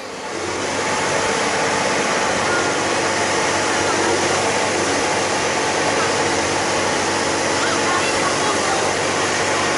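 Excavator's diesel engine running steadily with an even rushing noise.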